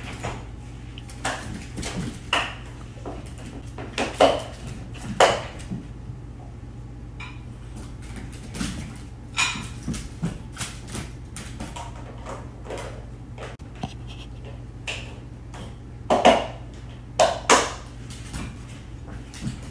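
Irregular clinks and knocks, like hard objects or dishes being knocked about, with louder ones about four and five seconds in and a cluster near the end, over a steady low hum.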